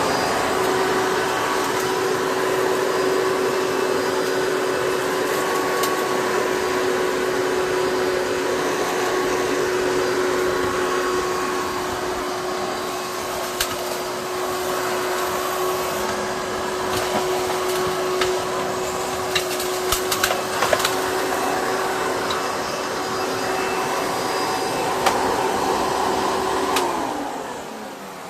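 Hoover Bagless Twin Chamber vacuum cleaner running steadily with a constant motor hum, sucking up dirt and debris with scattered sharp clicks around the middle. Near the end the motor is switched off and winds down, its pitch falling.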